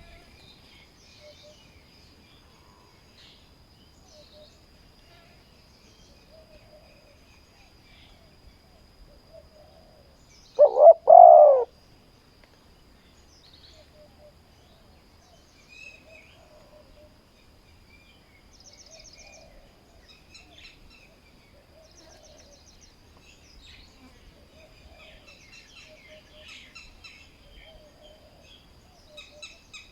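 Spotted doves cooing: one loud, close coo about eleven seconds in, among fainter coos repeating every second or two. Small birds chirp and a steady high-pitched whine runs underneath.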